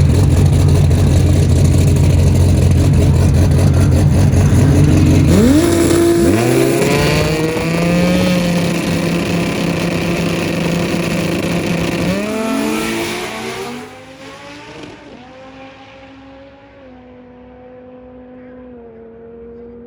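Drag race car running hard, then accelerating away with its engine pitch rising in steps through gear changes about six and twelve seconds in. It fades sharply into the distance after about fourteen seconds.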